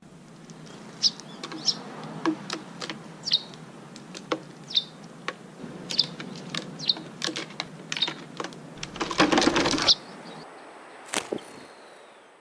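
Small birds giving short high chirps, mixed with many sharp clicks and taps, and a denser burst of rustling noise lasting about a second, starting about nine seconds in.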